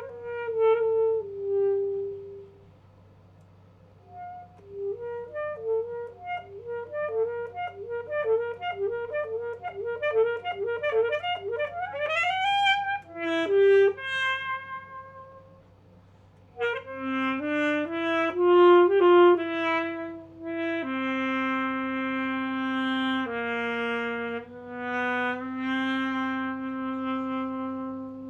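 Solo alto saxophone playing unaccompanied. It opens with a few notes and a pause, then a long run of quick short notes that climbs in pitch into a rising sweep. After another short pause come slower notes and then long held low notes.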